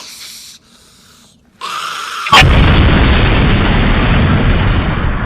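An explosion: a sudden loud blast about two seconds in, followed by continuous loud noise that carries on without a break.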